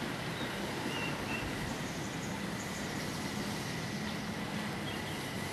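Steady background rumble with a low hum and a thin, steady high whine, like distant traffic. A couple of faint, short chirps come about a second in, and there is no tapping.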